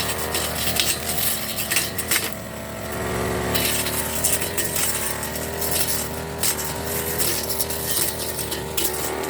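Firman petrol brush cutter engine running steadily, with many sharp clinks and ticks throughout.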